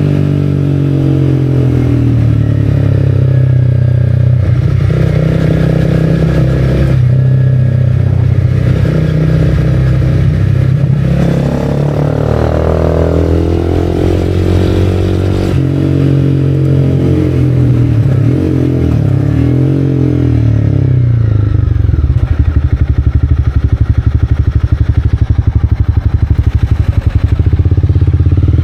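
Honda CB300R single-cylinder engine through an Arrow aftermarket exhaust, heard from the rider's helmet. The engine note rises and falls with throttle and gear changes while riding. From about three-quarters of the way in it settles into a steady, evenly pulsing idle.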